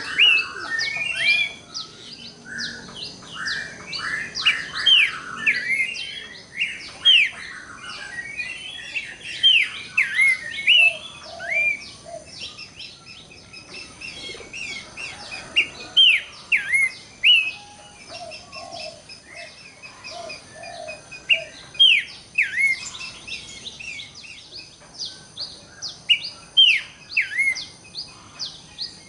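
Horsfield's babbler (pelanduk semak, cingcoho) calling: a busy run of short whistled notes that slide downward, repeated and overlapping, with a few lower notes in the middle.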